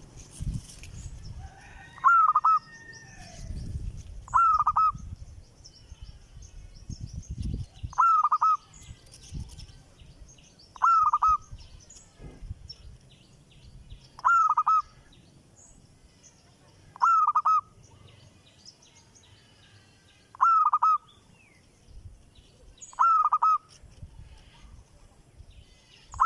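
A bird giving the same short, loud, hooked call over and over, about once every three seconds, eight times, with faint high chirping of other birds behind it. Some low rumbling noise runs under the first calls.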